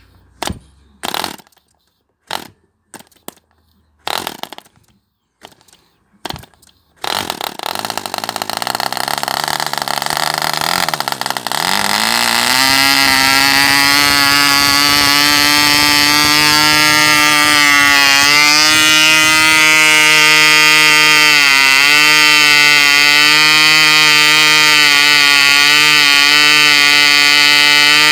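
Cipolla 1.5cc glow engine with an 8x6 propeller being started: a few short bursts of firing, then about seven seconds in it catches and runs rough and noisy. About twelve seconds in its pitch rises as it clears into a steady, high-pitched run that holds with brief small dips.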